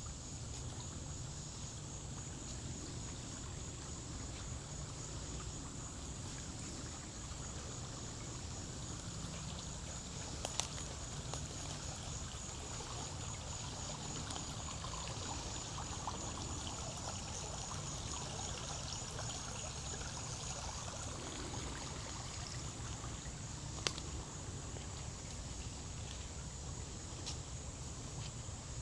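Forest ambience: an even, steady hiss with a high insect trill, strongest through the middle, and two sharp clicks about ten and twenty-four seconds in.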